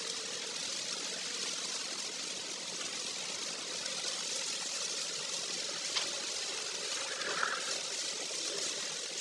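Car driving: steady road and tyre noise with a faint engine hum underneath, and a single sharp click about six seconds in.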